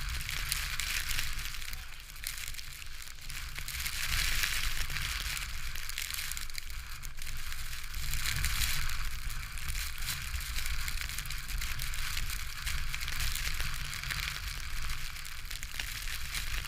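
Strong wind buffeting the microphone as a steady low rumble, under a dense crackling hiss that swells twice, about 4 and 8 seconds in.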